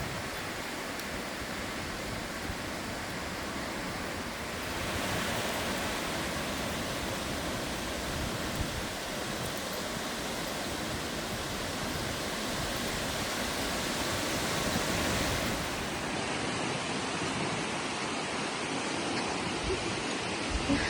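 Strong wind blowing in gusts, rumbling on the microphone; it picks up about five seconds in.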